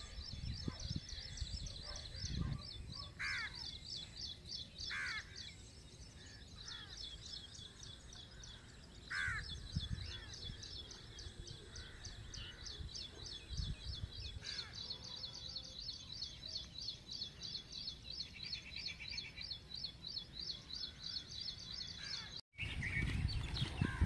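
Birds calling: a fast, steady run of high chirps goes on throughout, with a few louder down-slurred calls standing out about 3, 5 and 9 seconds in.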